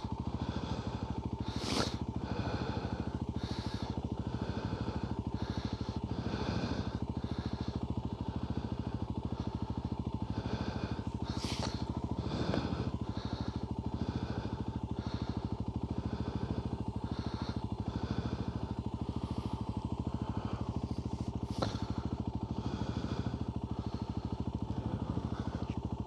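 Off-road motorbike engine running steadily as the bike rides along a trail.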